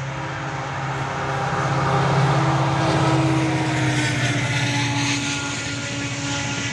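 Diesel-hauled express train passing close at speed: a steady low engine drone under dense wheel and rail noise, loudest a couple of seconds in, with a steady tone that slides slightly lower about halfway through.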